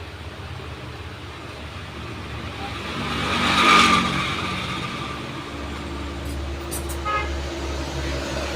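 Road traffic: a motor vehicle passes, swelling and fading about four seconds in, then an engine drones low, with a short horn toot near the end.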